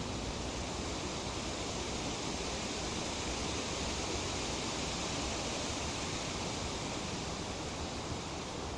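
Tree leaves rustling in a steady breeze: a continuous, even hiss that swells slightly about halfway through.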